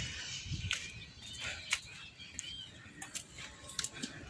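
Faint outdoor background with a few short, high bird chirps and scattered light clicks.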